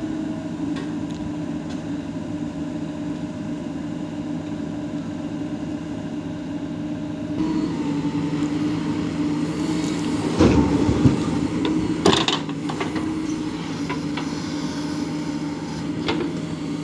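JCB 3DX backhoe loader's diesel engine running steadily. It gets a little louder about seven seconds in, with a few loud knocks and rattles a few seconds later.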